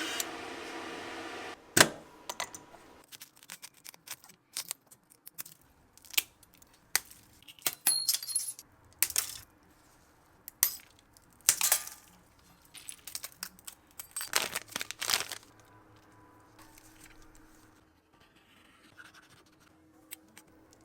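Irregular clicks, taps and short scrapes of small tools and parts being handled while an iPhone is taken apart and repaired, with a sharp click just under two seconds in. A steady background noise cuts off about a second and a half in.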